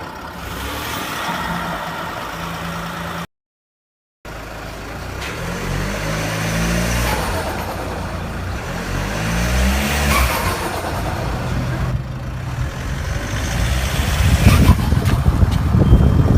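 Diesel Land Rover engine with a variable-vane turbo, running steadily, then after a brief silent cut revved up and let fall twice, with turbo flutter as the revs drop. The noise grows louder and rougher near the end.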